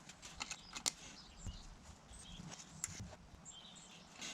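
A few faint, sharp clicks and light taps from metal workshop parts being handled and trial-fitted, over faint high chirping.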